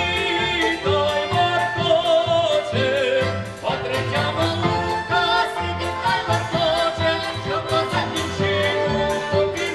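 Ukrainian folk ensemble singing a folk song in several voices, with wavering held notes over instrumental accompaniment with a steady beat.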